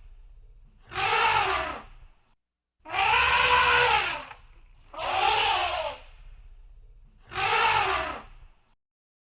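Elephant trumpeting: four loud, brassy calls of about a second each, one roughly every two seconds, each rising and then falling in pitch. A low rumble sits beneath them until near the end.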